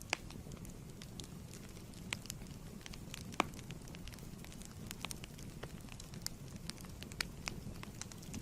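Wood fire crackling in a fireplace: a steady low burn with irregular sharp pops and snaps, the loudest about three and a half seconds in.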